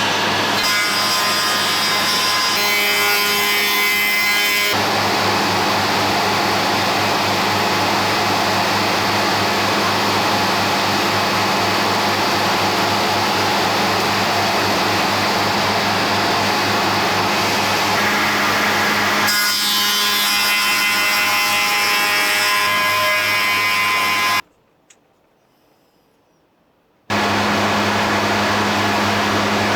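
Electric power tool running and cutting wood: a loud, steady machining noise with a low hum under it, changing character a few times. About 25 s in it drops to near silence for roughly two and a half seconds, then resumes.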